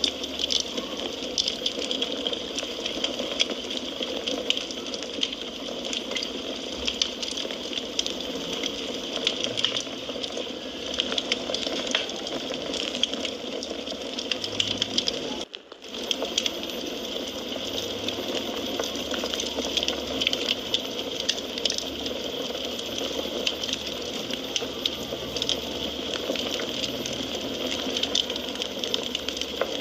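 Wood fire in a fireplace crackling, with a dense scatter of small pops and snaps over a steady hiss. The sound drops out for a split second about halfway through.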